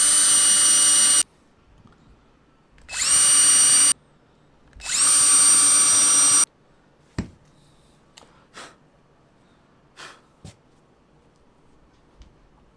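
Power drill running in three bursts of about one to two seconds each, each one spinning up to a steady high whine while drilling pilot holes for mounting screws. A few light knocks and clicks follow.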